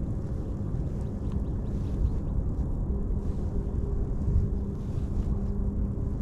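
Kayak motor running with a steady low hum, with wind rumbling over the microphone.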